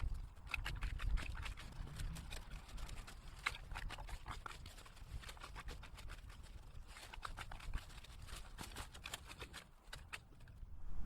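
Dry twigs and pruned brush crackling and snapping in quick, irregular clicks as the unlit brush pile is worked over.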